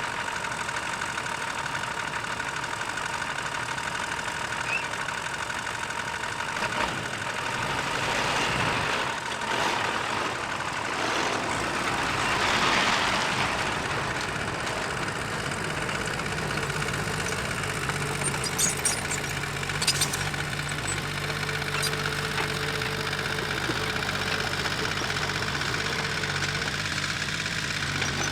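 Diesel engine of heavy earthmoving machinery running steadily, swelling louder for several seconds around the middle, with a few sharp metallic clicks later on.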